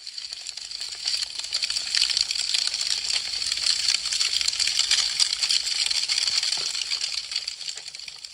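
Wood fire crackling: a dense, fast run of small pops and snaps. It swells in over the first second and fades away near the end.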